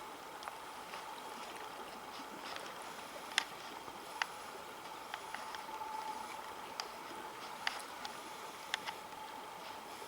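River water running steadily, with a few scattered sharp ticks or drips.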